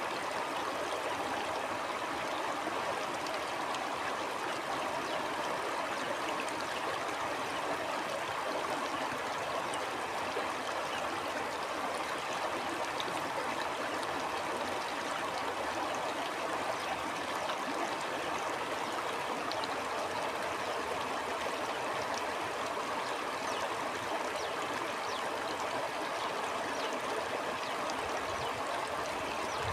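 Stream water flowing steadily, a constant, even rush of running water with small gurgles.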